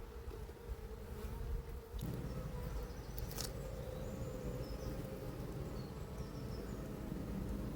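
Honeybees buzzing around an opened hive, a steady hum, with a sharp click about three and a half seconds in.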